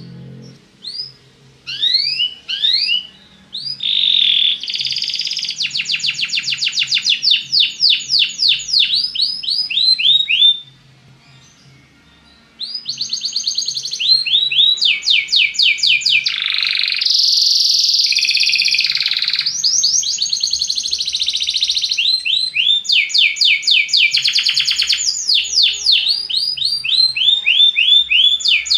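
Belgian canary singing: rapid trills of quickly repeated falling whistled notes, broken by a short pause about ten seconds in before the song resumes.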